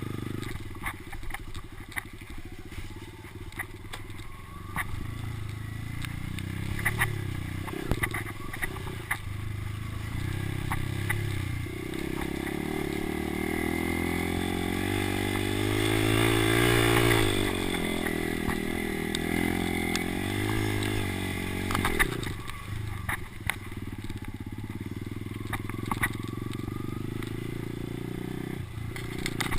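Kawasaki motocross bike's engine being ridden, its revs rising and falling through the gears and climbing to the highest revs about halfway through, with scattered knocks and clatter.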